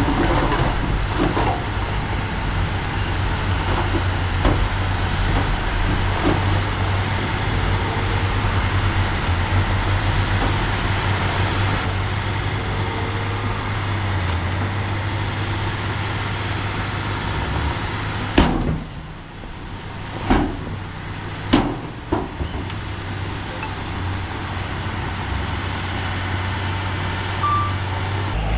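Diesel engine of heavy earthmoving machinery running steadily. About two-thirds of the way in the engine drone drops and three sharp knocks come a second or two apart.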